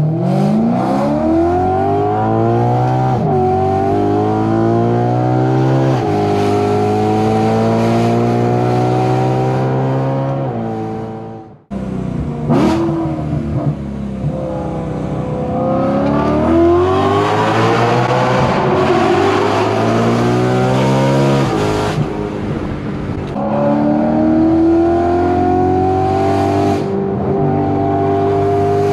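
BMW E90 M3's 4.0-litre V8 through a titanium aftermarket exhaust, accelerating hard with the revs climbing through the gears and dropping at each upshift. The sound cuts out briefly about eleven seconds in, then the engine revs up again.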